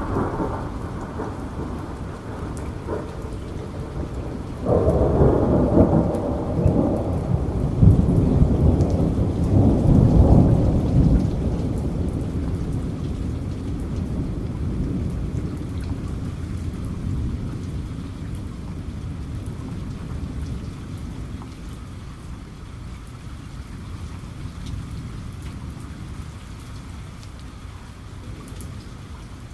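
Steady rain falling, with a thunderclap breaking in about five seconds in. The thunder rumbles loudly for several seconds, then slowly dies away under the rain.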